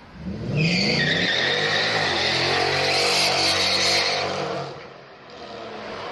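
Straight-piped Mercedes-Benz W211 AMG V8 accelerating hard: the engine note climbs over the first second, holds loud for about three seconds, then fades away.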